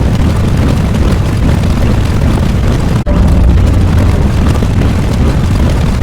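Loud, deep rumbling roar, strongest in the bass, with a momentary cut about three seconds in.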